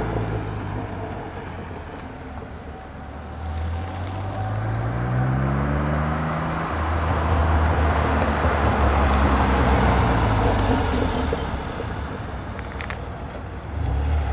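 1981 DeLorean's stock 2.85-litre PRV V6 running through a Flowmaster Series 80 muffler as the car drives. The exhaust note rises in pitch for a couple of seconds about four seconds in, drops back, is loudest in the middle, then eases off and swells again near the end.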